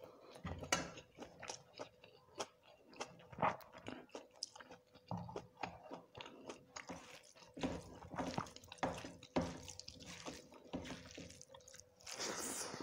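Close-miked chewing and mouth sounds of eating rice and dal by hand: irregular wet smacks and crunchy clicks, over a faint steady hum, with a short louder rush of noise near the end.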